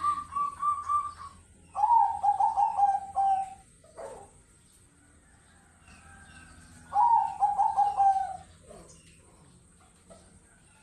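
Zebra doves (perkutut) cooing: phrases of quick, pulsed notes, a higher one ending about a second in, then two lower ones that fall slightly, at about two and seven seconds in.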